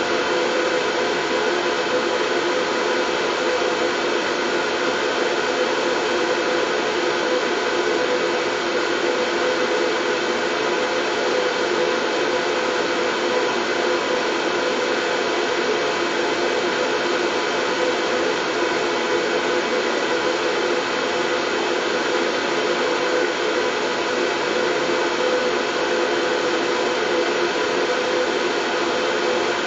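Steady, unchanging white noise of the kind played to lull a baby to sleep, a dense hiss with faint steady hum-like bands in it.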